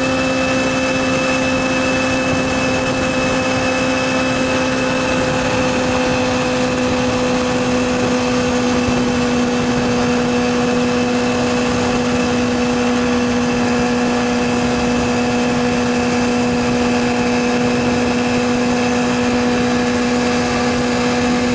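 Yamaha YZF-R6's inline-four engine running at a steady speed under way, its pitch holding level throughout, with wind noise rushing over the bike-mounted microphone.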